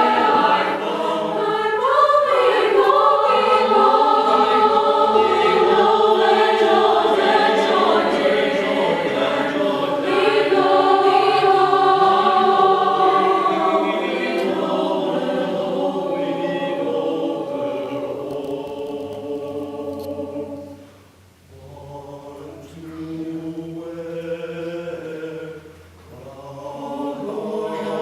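A choir singing long, held chords, with two short dips in volume near the end.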